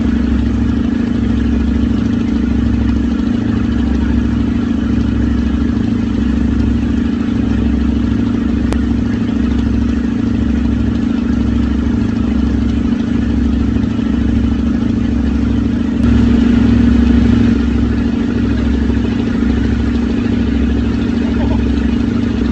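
A motor running steadily with a low drone, under which a deep pulse comes and goes about once a second; it swells slightly about two-thirds of the way in.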